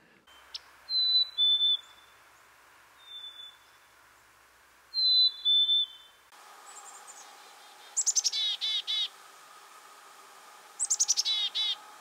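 Black-capped chickadee: a clear, whistled two-note 'fee-bee' springtime song, a higher note dropping to a lower one, heard a few times. After it come two 'chick-a-dee-dee-dee' calls, each a quick string of repeated 'dee' notes.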